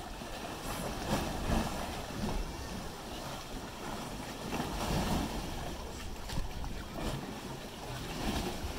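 Wind buffeting the microphone over lake water lapping against limestone cliffs, rising and falling in slow swells.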